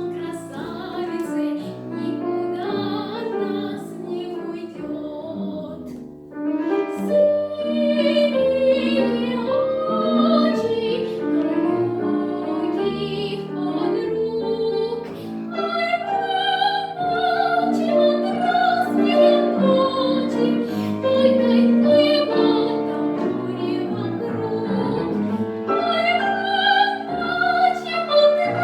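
A young girl's solo voice singing a Russian song in a trained, classical style with piano accompaniment. Softer for about the first six seconds, then louder.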